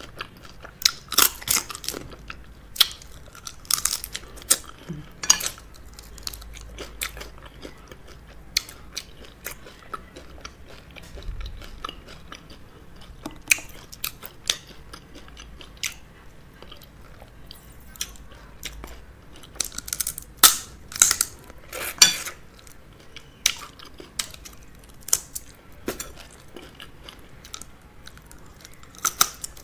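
Close-miked eating of fufu and okra soup with crab: wet chewing broken by sharp crunches and bites in irregular clusters, the loudest a little past twenty seconds in.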